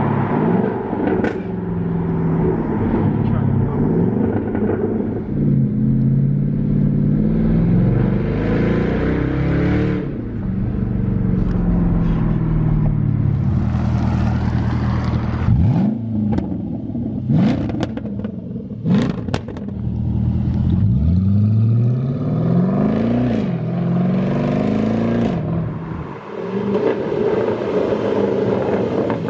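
Muffler-deleted 2011 Jaguar XK's naturally aspirated 5.0-litre V8 exhaust under way, deep and aggressive in tone. The revs climb and drop back repeatedly through gear changes, with several quick rises near the middle and a long pull in the second half.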